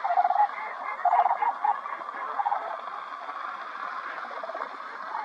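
A large flock of birds calling together: a steady din of many overlapping calls, with several louder, rattling calls near the start and about a second in.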